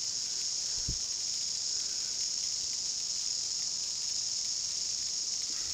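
Many New Zealand chorus cicadas (Amphipsalta zelandica) singing together in a steady, high-pitched, unbroken drone. There is a soft low thump about a second in.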